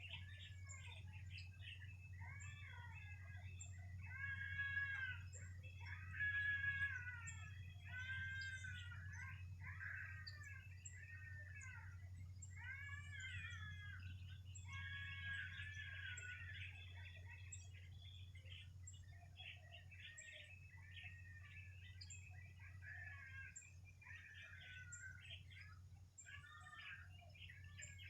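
Several birds calling and chirping, with many short, overlapping arched calls, loudest from about four to seven seconds in. A steady low hum runs underneath.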